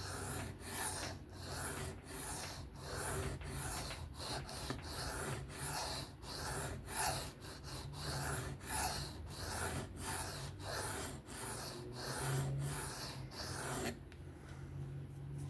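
Folding-knife blade drawn back and forth across a sharpening stone in freehand strokes, about two a second, working up a burr along the edge. The strokes stop about 14 seconds in.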